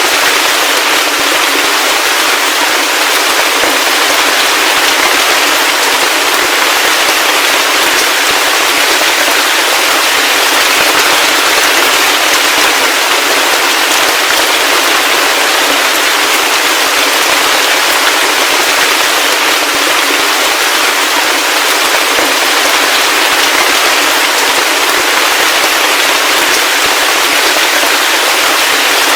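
Steady heavy rain: a dense, even hiss of crackling drops with no deep rumble beneath it.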